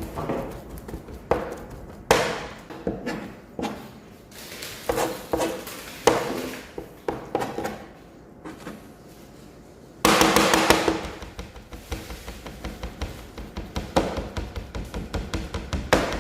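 Irregular knife chops and taps on a cutting board, with a louder clatter about ten seconds in, over background music.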